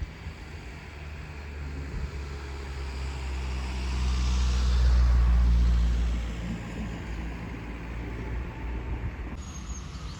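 A motor vehicle driving past, growing louder to a peak about five seconds in and then fading away.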